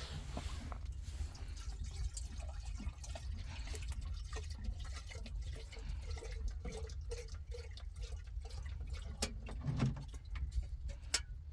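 Liquid being poured and dripping into a vessel, with scattered small clicks and knocks, over a steady low rumble.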